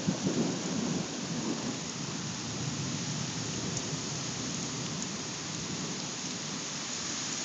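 Heavy rain falling steadily on grass and trees, with a low rumble of thunder dying away over the first second or so.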